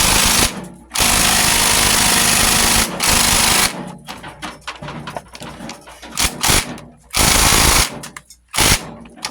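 Handheld power tool run in repeated bursts on the tractor's fasteners: two long runs of about two seconds early on, then several short blips and one run of under a second near the end.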